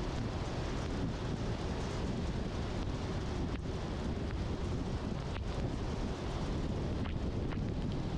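A car driving on a wet road in the rain: a steady low rumble with the hiss of tyres on wet pavement, and a few faint clicks.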